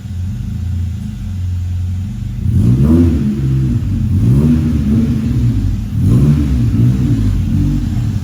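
Honda Civic EG's B18C four-cylinder engine idling, then revved up and back down about three times.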